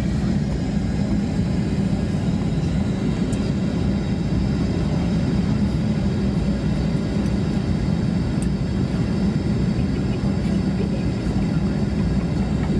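Steady low hum and rush of air inside an Airbus A321neoLR cabin at the gate before departure, with faint steady high-pitched tones above it.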